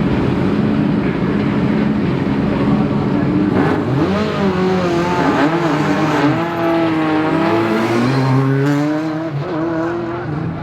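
Rally car engine running steadily, then from about four seconds in revving hard, its pitch climbing and dropping again and again.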